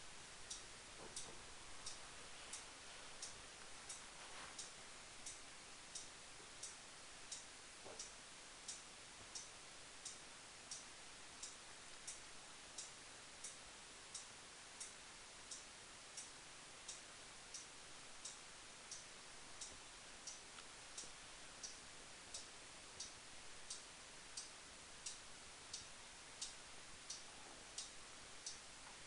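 Clock ticking steadily, about three ticks every two seconds, over faint room hiss.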